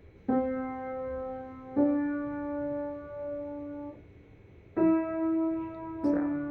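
Piano played one note at a time by a small child: slow single notes, three stepping upward and then one stepping back down, each held for a second or more.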